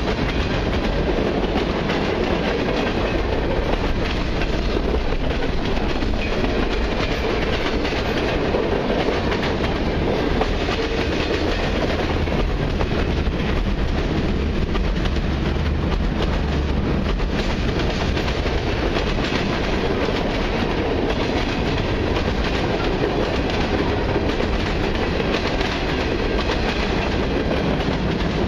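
Freight cars of a long mixed freight train (centerbeam flatcars, gondolas and loaded bulkhead flatcars) rolling past close by, with a steady, loud rumble and rattle of steel wheels on the rails.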